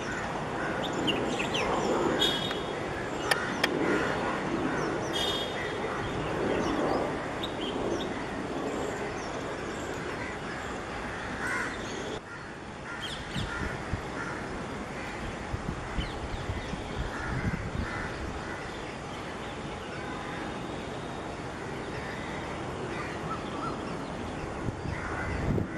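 Birds calling repeatedly in short, sharp calls over steady outdoor background noise.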